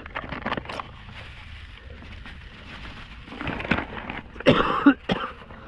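Rustling and pouring from a bag of granulated sugar being handled and emptied into a beehive's top shim, with a short cough-like throat sound about four and a half seconds in.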